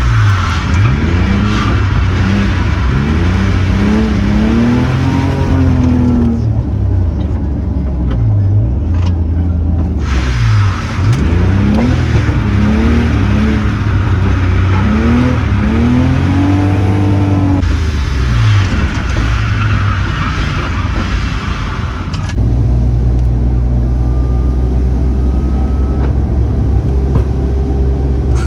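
Car engine driven hard, revving up through the gears: its pitch climbs and drops back at each shift. It lets off twice, and in the last six seconds it settles to a steady low drone.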